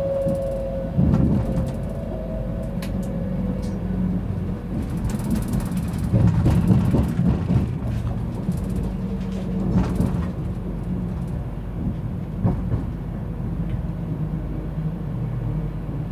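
Class 390 Pendolino electric train heard from inside the passenger saloon as it slows into a station: a steady rumble of wheels on rail, with knocks and clatter as the wheels cross points. A falling whine fades out in the first few seconds as the train slows.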